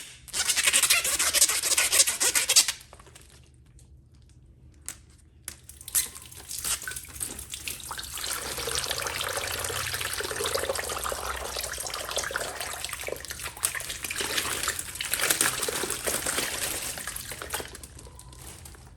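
Water running, as from a tap, in two spells: a short loud gush just after the start, then after a pause a longer, steadier stream that fades out near the end.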